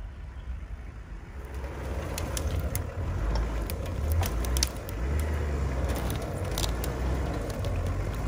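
An off-road 4x4's engine running, getting louder about a second and a half in, with scattered sharp clicks and crackles over it.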